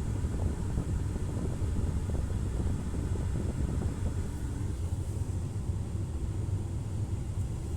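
Steady low rumble at a car wash, a car and the wash machinery running together, with a faint hiss above it.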